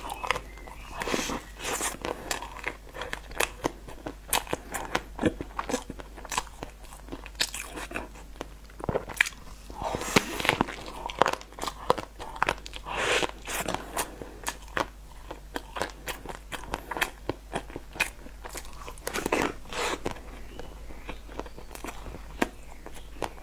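A person biting into a chocolate cake roll and chewing it, close-miked on a lapel microphone: wet smacking and many sharp, irregular mouth clicks, with a bite near the start.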